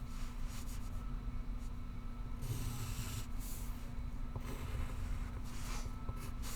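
Pencil writing on paper in irregular scratchy strokes, over a steady low hum of room tone.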